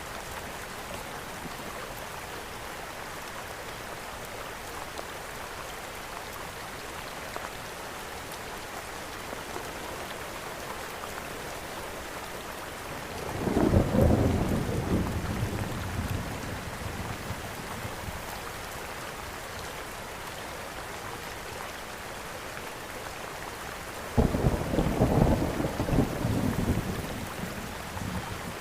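Steady rain hiss with two low rolls of thunder, one swelling up about halfway through and a second starting suddenly near the end.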